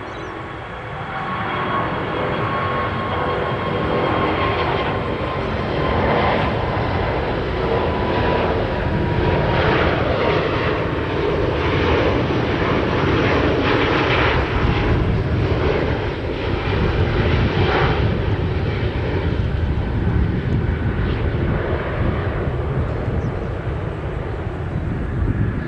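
Airbus A380's four Rolls-Royce Trent 900 turbofans at take-off thrust: sustained loud jet noise with a high whine that slowly falls in pitch as the aircraft passes, turning rough and crackly at its loudest through the middle.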